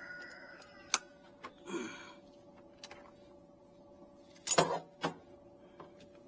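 A few sharp clicks and knocks of tools and parts being handled, the loudest a clatter about four and a half seconds in, over a faint steady hum.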